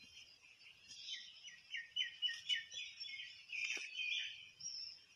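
Birds singing: high chirps and calls, with a quick run of about six short downward-sliding notes near the middle.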